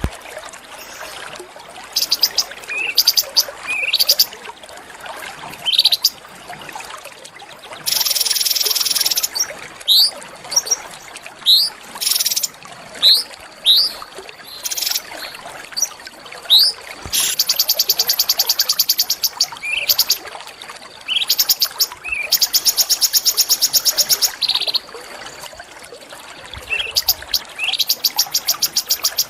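Small songbirds calling: sharp, quickly rising whistled notes come one at a time, roughly every second or two. They alternate with long, rapid buzzing trills that last a second or two each, and a faint hiss of natural background runs underneath.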